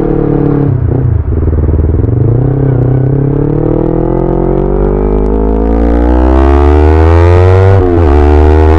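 Yamaha YZF-R25's 250 cc parallel-twin engine under acceleration. Its pitch climbs steadily for several seconds, drops sharply near the end at a gear change, then starts rising again.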